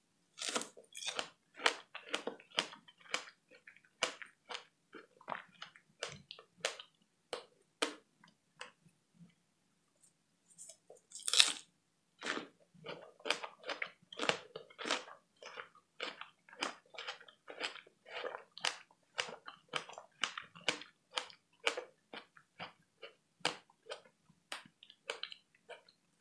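Close-miked mouth sounds of a person biting into and chewing fresh strawberries: a quick run of chews, a pause of about two seconds, one louder burst about eleven seconds in, then steady chewing again.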